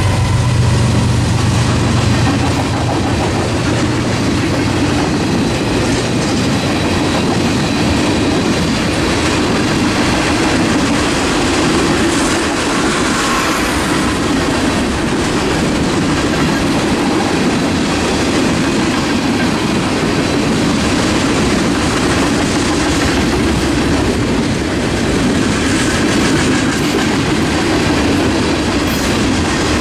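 Freight train cars (tank cars, covered hoppers and boxcars) rolling steadily past on steel wheels. The low drone of the diesel locomotives that have just gone by fades out in the first few seconds.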